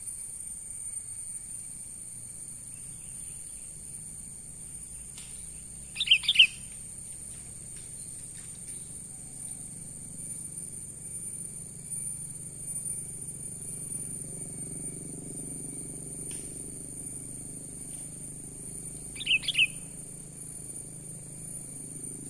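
Sooty-headed bulbul giving two short chirping calls about thirteen seconds apart, over a steady high-pitched insect drone.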